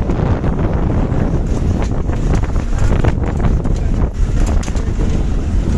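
Strong gusty wind blowing hard across the microphone: a loud, unbroken low rumble that swells and dips with the gusts.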